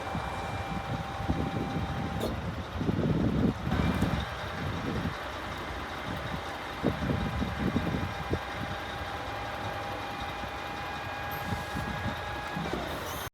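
Scania P320 truck running, a steady whine over an uneven low rumble. The whine changes pitch a few seconds in and slides down just before the end.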